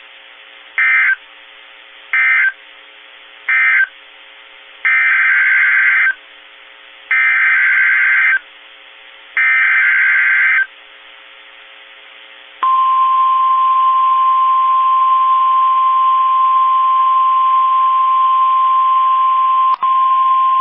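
NOAA Weather Radio alert signalling: three short SAME data bursts, the end-of-message code closing one warning, then three longer warbling SAME header bursts announcing the next warning. After that comes the steady 1050 Hz warning alarm tone, starting about two-thirds of the way in, which marks the start of a new warning broadcast. Faint radio hiss fills the gaps, and there is a brief click near the end.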